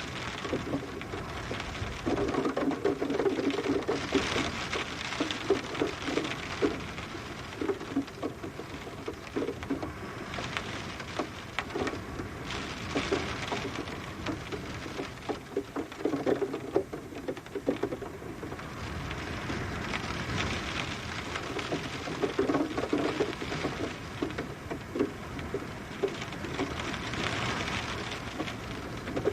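Steady rain with many individual drops pattering and tapping, growing denser and louder in patches every few seconds.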